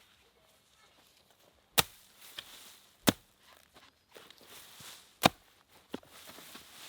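Three sharp knocks, about a second and a half to two seconds apart, with a few fainter knocks and soft rustling between them.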